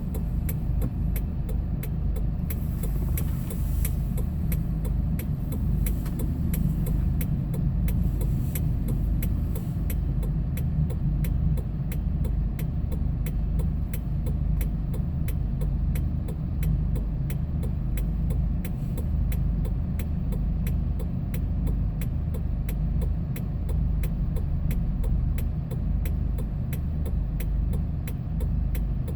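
Hyundai Porter II light truck heard from inside the cab while driving: a steady low engine and road drone with a faint regular ticking over it.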